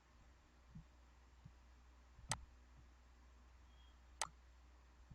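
Near silence broken by two sharp clicks, about two seconds apart, over a faint low hum.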